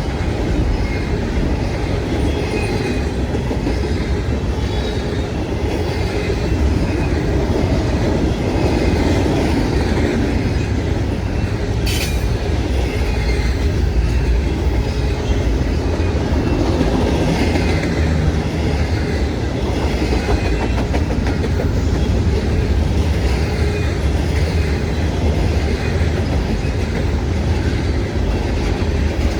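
Freight train cars rolling past on the track: a steady low rumble with a rhythmic clickety-clack of wheels over the rail joints. One sharp click stands out about twelve seconds in.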